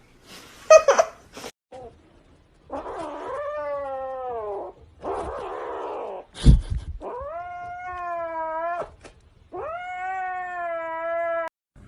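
Domestic cat yowling: a series of long, drawn-out caterwauls, each about two seconds, wavering and falling in pitch. A few clicks come near the start, and a sharp knock comes about six and a half seconds in.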